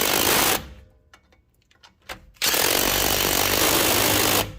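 A power tool run in two bursts with a hammering rattle, like an impact wrench: a short burst ending about half a second in, then a steady run of about two seconds starting about two and a half seconds in.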